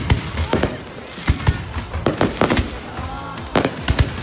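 Fireworks display with shells bursting overhead: an irregular series of about a dozen sharp bangs and cracks, some close together, several in a second.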